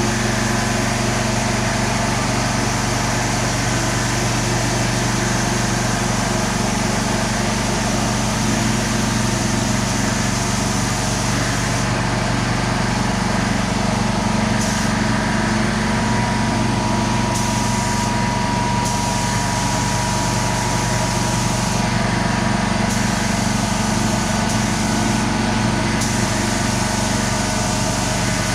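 A machine running steadily: a constant motor hum with a hiss over it, unchanging throughout.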